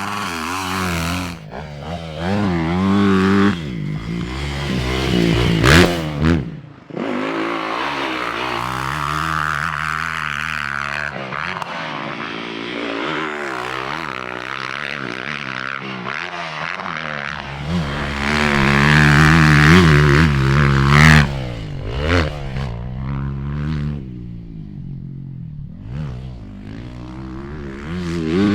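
Motocross dirt bike engine revving as the bike is ridden around the track, its pitch climbing and dropping again and again with throttle and gear changes.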